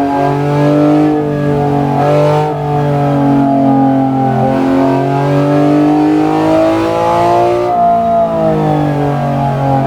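BMW S54B32 naturally aspirated 3.2-litre inline-six engine running at moderate revs, its pitch drifting gently up and down, climbing for a few seconds and then falling back a little before eight seconds in.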